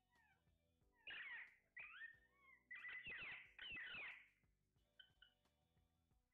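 Pet parrot squawking: a run of harsh screeching calls starting about a second in and loudest around three to four seconds, with faint short chirps before and after.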